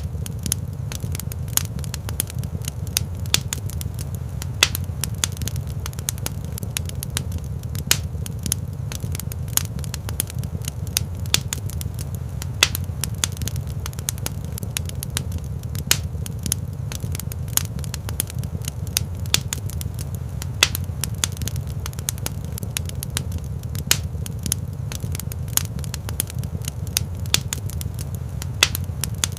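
Wood fire burning in a rock fireplace, crackling with frequent irregular sharp pops over a steady low rumble.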